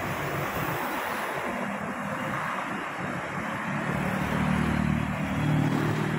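Steady rain with road traffic. A vehicle's engine grows louder from about four seconds in as it passes, then fades near the end.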